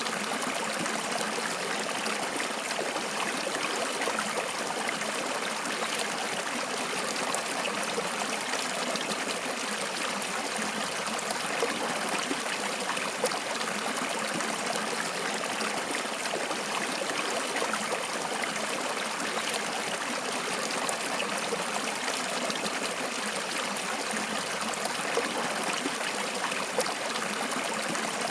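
Water flowing steadily in a stream, a continuous rushing with small splashes and trickles.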